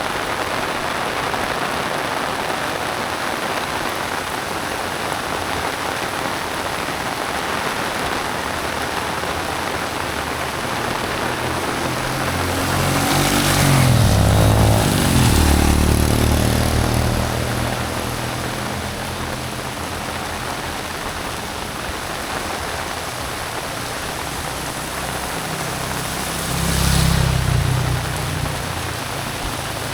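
Heavy rain falling steadily. A low rumble swells up about halfway through, with a pitch that falls, and a shorter one comes near the end.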